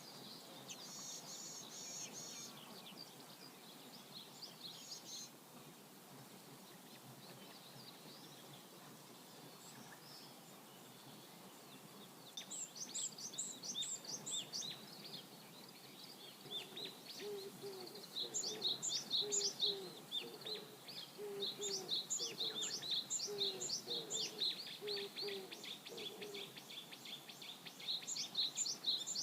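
River water flowing steadily, with songbirds singing over it. From about twelve seconds in, a bird sings phrases of quick, high, repeated notes, and in the middle stretch a lower call repeats over and over.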